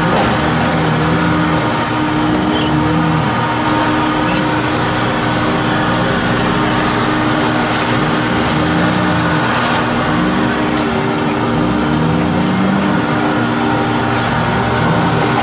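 Heavy equipment's engine and hydraulics running steadily under load. A steady drone runs throughout, with its pitch briefly bending up and down several times.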